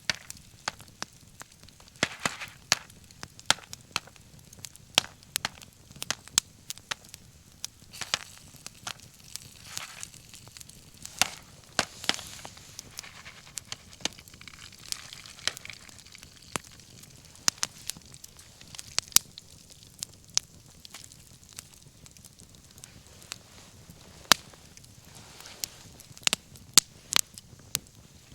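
Wood bonfire crackling, with sharp, irregular pops of varied loudness and a brief soft hiss about twelve seconds in.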